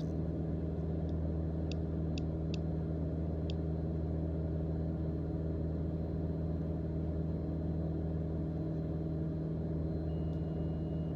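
Steady drone of a Mooney M20J's four-cylinder Lycoming engine and propeller at cruise-climb power, about 2400 rpm, heard in the cabin. A few faint ticks come about two to three seconds in.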